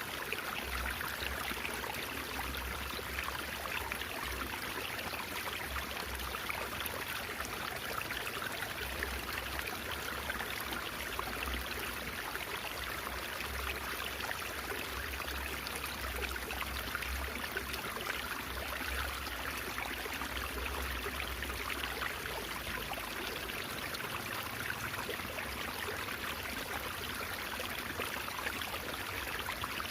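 Water babbling steadily over stones in a stream, an even rushing splash with no break.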